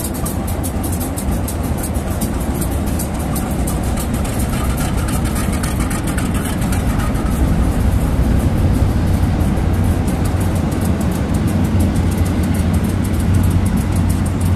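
Train running with a steady, loud low rumble, and a faint higher tone rising above it for a few seconds midway.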